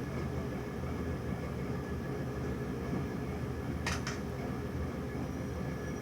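A steady low rumbling noise, with two quick clicks a little past halfway.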